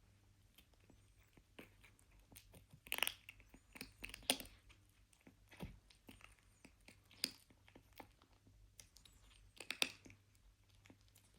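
A kitten chewing food, with irregular sharp crunches; the loudest come about three, four and ten seconds in.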